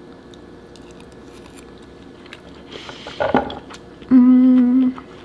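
Faint clicks and mouth noises of someone chewing a mouthful of food, then a hummed one-note 'mmm' of about a second near the end, the loudest sound.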